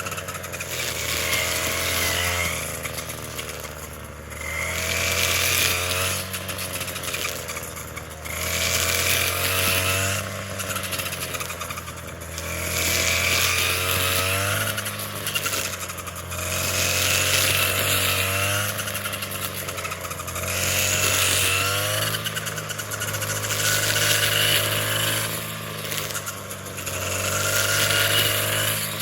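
Small engine-driven machine running steadily, its load and pitch swelling and easing in a regular cycle about every four seconds.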